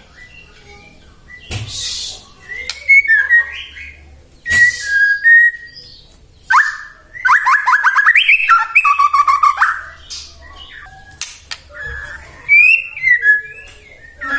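White-rumped shama singing: a varied phrase of loud whistled notes and pitch slides, broken by sharp clicks, with a fast run of rapid repeated notes about halfway through.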